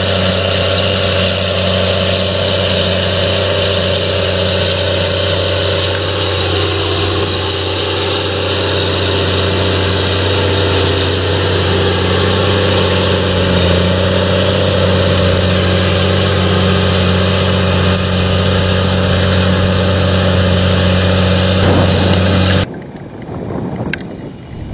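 An engine running steadily at a constant pitch; the drone stops abruptly near the end, leaving wind noise.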